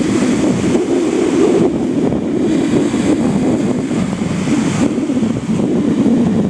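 Strong wind of about 14–16 m/s blasting the microphone: a loud, continuous rush that surges and eases.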